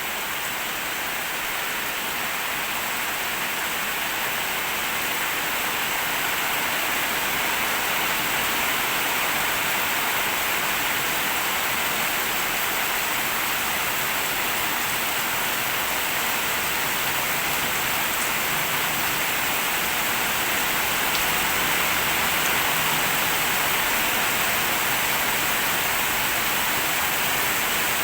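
Rain falling steadily, an even hiss that grows a little louder over the first several seconds.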